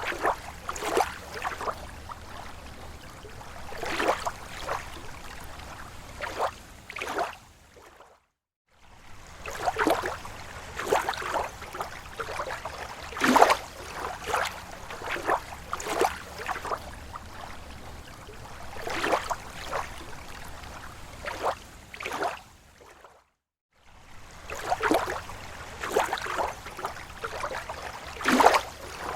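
Small waves lapping against a lake shore: a run of irregular splashes and gurgles over a steady wash of water. The sound drops out to silence for under a second twice, about eight seconds in and again about twenty-three seconds in.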